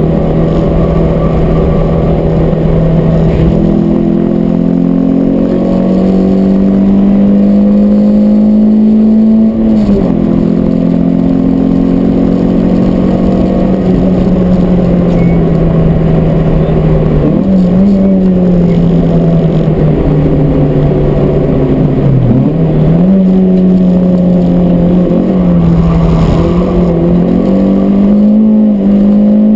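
Peugeot 106 S16's 1.6-litre 16-valve four-cylinder engine running hard on track, heard inside the stripped cabin, breathing through a stainless Group N exhaust and MC Racing intake. The engine note climbs slowly under load and drops sharply several times as the driver lifts and changes gear for corners.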